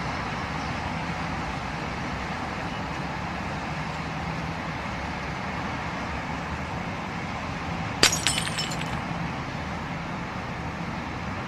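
Steady car driving noise, then about eight seconds in a sudden collision impact with glass shattering and tinkling for about a second.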